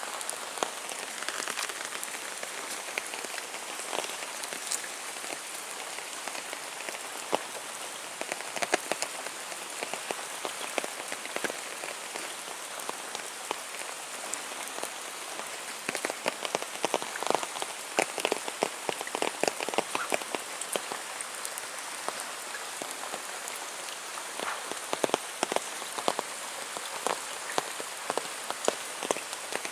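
Steady heavy rain falling, an even hiss with many sharp drips and splashes of drops hitting surfaces close by.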